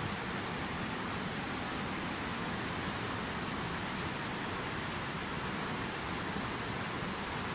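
Steady rushing water, an even hiss without breaks or changes.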